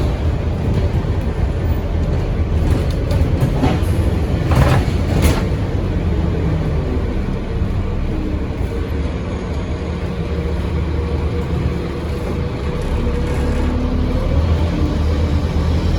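Scania N230UD OmniCity double-decker bus's five-cylinder diesel engine running steadily as the bus drives, with a couple of sharp rattles or knocks about four and five seconds in.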